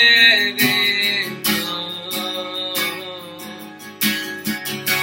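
Acoustic guitar strummed in a steady rhythm under a man singing a slow worship refrain, holding a long note near the start.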